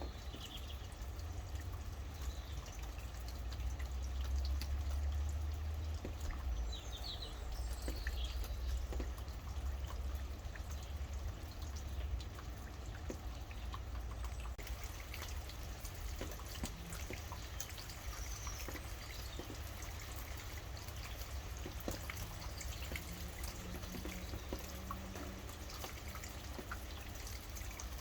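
Rain falling steadily with individual drops dripping close by, over a low rumble that swells a few seconds in. A few short bird chirps come at the start, about eight seconds in, and again a little past the middle.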